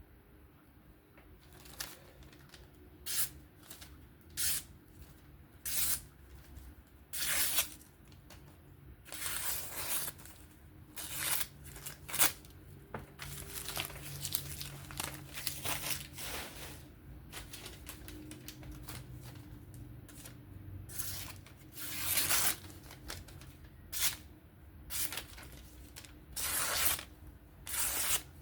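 Freshly sharpened Spyderco Kapara S30V blade slicing through paper: a series of short, hissing cuts at irregular intervals, some quick, some drawn out over about a second.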